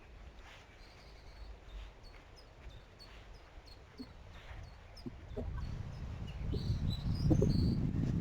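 A bird chirping repeatedly in short, high calls, about three a second. A low rumble builds up over the second half.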